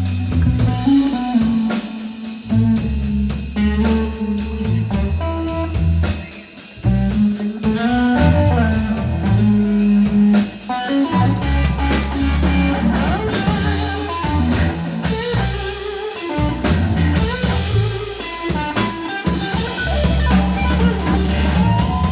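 Blues trio playing an instrumental passage: electric guitar lines over drum kit and deep bass notes, with a brief lull about six seconds in.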